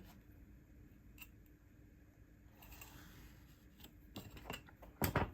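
Small stationery handling sounds on a desk: a soft scratchy paper sound, then a few light clicks and taps, the loudest cluster near the end.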